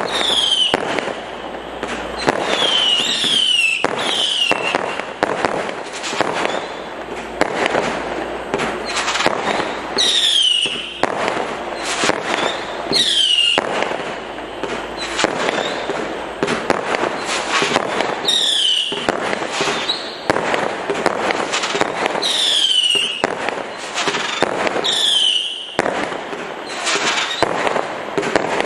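Kimbolton Screeching Devils 110-shot firework cake firing in rapid succession: a continuous run of launch thumps, bursts and crackle. Over it, short whistling tails falling in pitch sound every few seconds.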